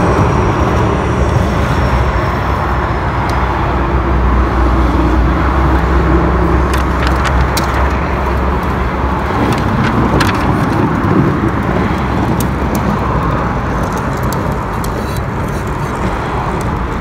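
A car engine running steadily close by, a low rumble with a few light metallic clicks over it.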